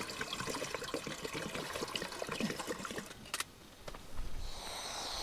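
Water poured from a bottle into a camping cooking pan, trickling and splashing for about three seconds. About four seconds in, a steady hiss with a low rumble begins.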